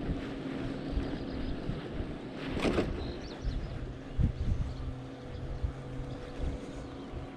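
Wind buffeting the microphone in gusts while riding a bicycle, over a steady low hum of the ride, with a brief louder burst of noise about two and a half seconds in.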